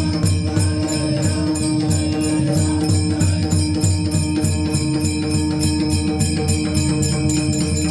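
Instrumental passage of a Marathi devotional bhajan: pakhawaj drumming under quick, evenly spaced metallic jingling and a held drone note.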